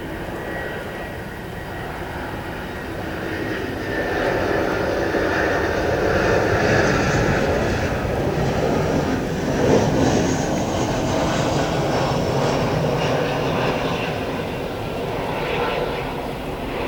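Airliner engines passing close on a landing, the noise swelling to a peak about ten seconds in and then fading.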